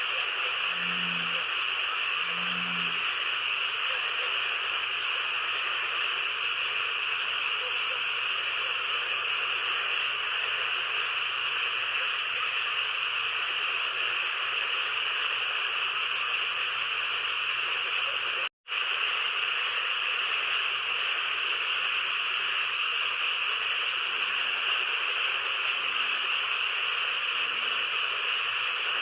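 A steady chorus of calling frogs, dense and unbroken, with soft low croaks repeating about once a second near the start and again near the end. The sound cuts out for an instant about two-thirds of the way through.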